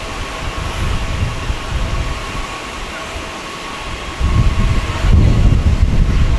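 Jet airliner engines running: a Peach Airbus A320neo's CFM LEAP-1A turbofans, a steady whine over a low rumble that swells louder about four seconds in.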